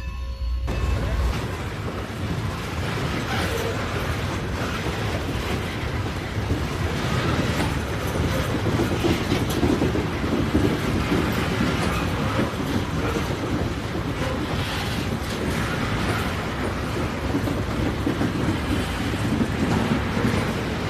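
A train passing close by: a steady rumble and track noise, with the wheels clacking over the rail joints. It cuts in abruptly under a second in, replacing the fading tail of a whistle tone.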